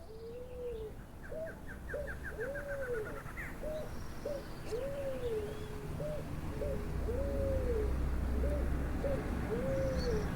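A dove cooing in a repeated phrase: a long, low, arched coo followed by two short coos, over and over. A second bird gives a rapid, descending trill of quick notes in the first few seconds.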